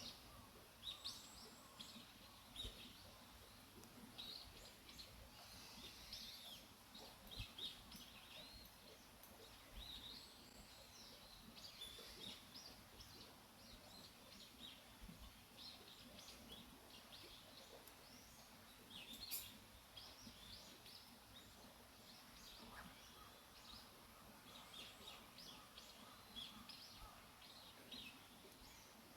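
Faint wild bird chirps and calls: many short high notes scattered throughout, over quiet outdoor ambience.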